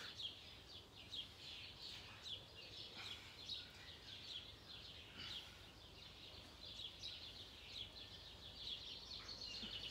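Faint birdsong: many short chirps and calls repeating throughout, over a faint steady low outdoor rumble.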